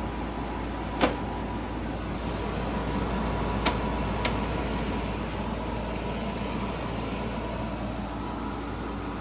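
Grelife 8000 BTU portable air conditioner running in cooling mode on high fan, a steady whooshing with a faint steady tone. Three sharp clicks cut through it, the loudest about a second in.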